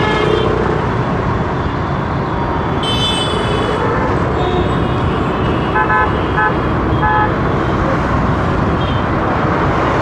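Steady rumble of road traffic heard from a motorbike riding through a city street, with other vehicles' horns honking: one horn blast about three seconds in, then a few short toots around six to seven seconds.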